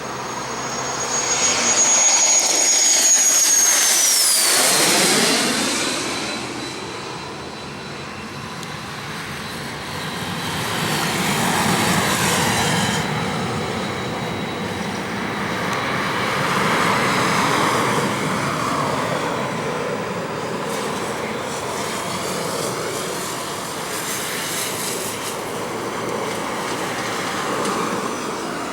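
Cessna Citation M2 business jet's twin Williams FJ44 turbofans at takeoff power as it passes by: a high whine drops sharply in pitch about four seconds in, at the loudest point, then the jet roar carries on at a lower level.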